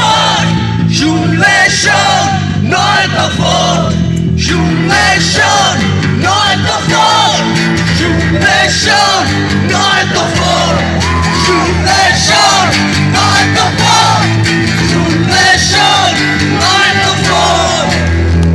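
Live music with many voices singing and shouting together, over a steady low hum.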